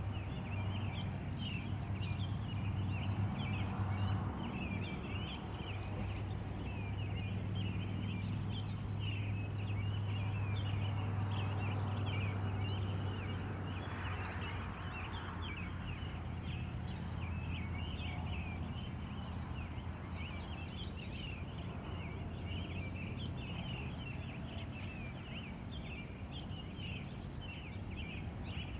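Early-morning chorus of many wild birds, dense short chirps overlapping throughout, with a couple of quick high trills later on. Behind it runs a steady high insect trill and a low hum that fades over the second half.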